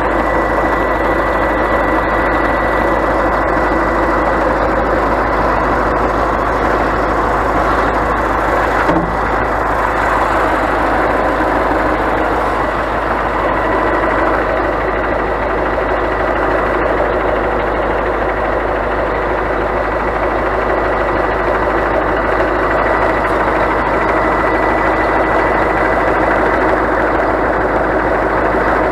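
Scania truck's diesel engine running steadily, with a thin high tone held over it.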